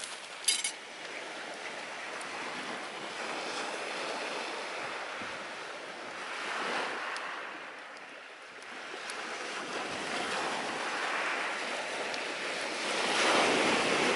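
Sea waves washing onto the shore, a steady wash that swells twice, halfway through and more loudly near the end. A single sharp crackle about half a second in.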